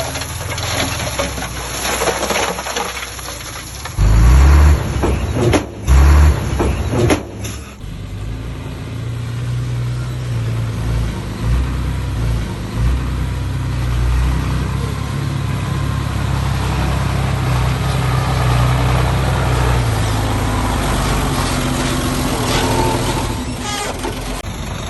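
Diesel engine of heavy construction machinery running, with clattering at first. From about four to seven and a half seconds in come several very loud low-pitched blasts, then the engine runs steadily.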